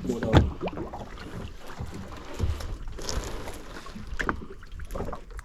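Wind and water noise aboard a small open fishing boat, with a few scattered knocks and thumps on the deck.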